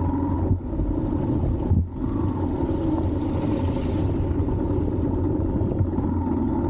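Yamaha R15 motorcycle's single-cylinder engine running steadily under way, with two brief dips in its sound in the first two seconds.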